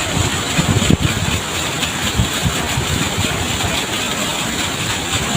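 Steady roar of a waterfall, a loud even rush with a heavy, uneven low rumble.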